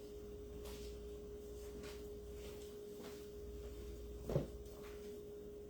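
A steady, faint electrical-sounding tone with a low hum beneath it, along with soft handling rustles and a brief louder blip about four seconds in.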